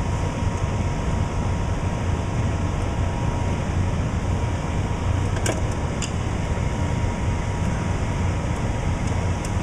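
Gas furnace running with its burner lit and blower on: a steady low hum, with a couple of light clicks about halfway through. The burner stays lit on a new flame sensor.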